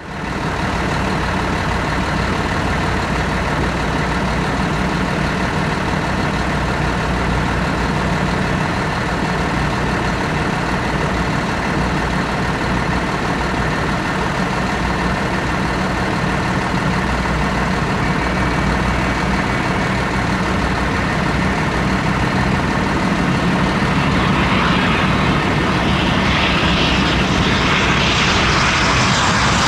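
Aircraft engine running steadily, a close, loud mix of low drone and hiss. From about 24 seconds in it grows louder, with more high hiss.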